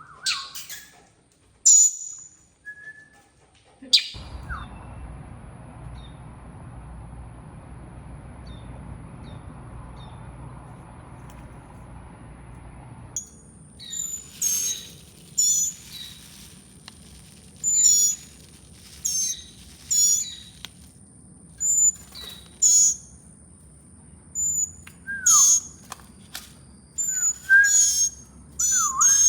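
Young hand-raised bird chirping: short, high chirps, some followed by a lower down-slurred note, coming about once a second in the second half. A steady rushing noise starts a few seconds in and stops about halfway through.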